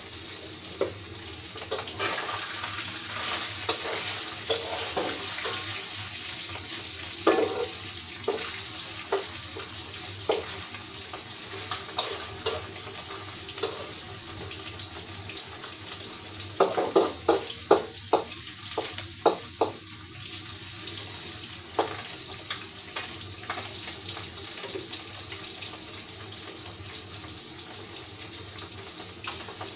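Food frying in hot oil with a steady sizzle, and a metal spatula knocking against the pan now and then, in a quick run of about eight knocks a little past the middle.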